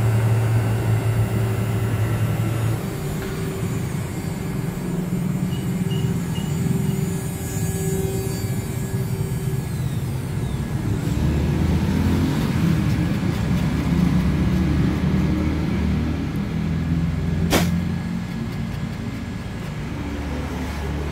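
Small CNC router running while milling a circuit board: a steady motor hum with held tones for the first few seconds, then low motor tones that change pitch in stretches as the machine moves, with one sharp click late on.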